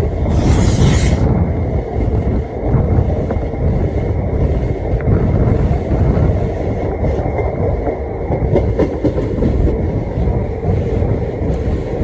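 Train running on the track: a steady, loud rumble of wheels on rails. A short hiss comes about half a second in.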